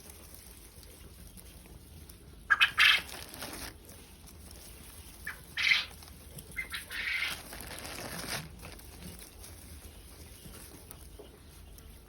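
Quail calling in their enclosure: a quick run of sharp, high calls, then single calls a few seconds apart.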